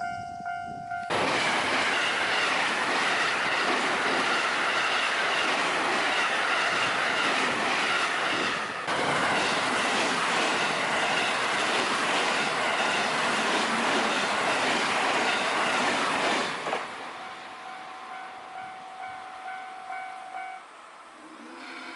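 Japanese railway level-crossing warning bell clanging in a steady rhythm. About a second in, an electric train passes over the crossing for some fifteen seconds, with wheels clattering on the rails, and drowns out the bell. There is a brief dip about nine seconds in. The bell is heard again once the train has passed, and a lower tone begins shortly before the end.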